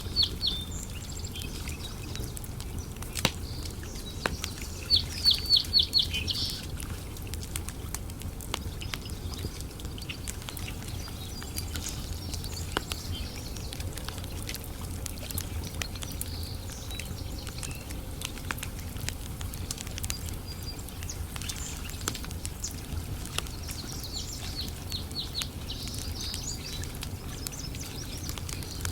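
Campfire crackling, with scattered small pops over a low steady rumble. Birds chirp on and off, with a quick run of about six chirps around five to six seconds in and more near the end.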